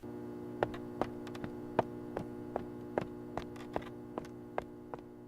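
A steady low hum that starts abruptly, with sharp ticks at an even pace of about two and a half a second.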